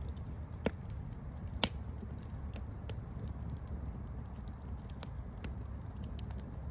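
Campfire burning with a low steady rumble and frequent small crackles, and two louder pops in the first two seconds, the second the loudest.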